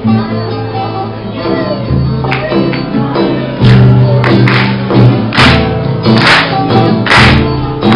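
A band's music with guitar and bass, the bass holding long notes. Sharp, regular beats come in about three and a half seconds in, roughly one a second.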